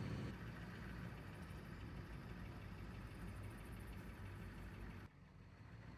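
Steady engine and road noise from inside a moving van, a low rumble that drops suddenly to a quieter level about five seconds in.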